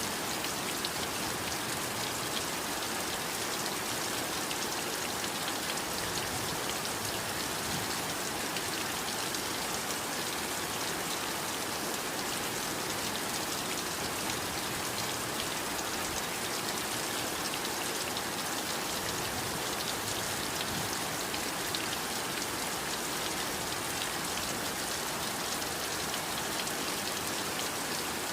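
Heavy rain falling steadily, a constant hiss of drops with fine patter of individual drops hitting a surface.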